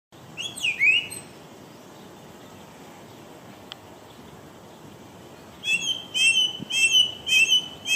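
A songbird singing: a few quick whistled notes sweeping up and down near the start, then, about two-thirds of the way in, a run of repeated chirped notes, about two a second.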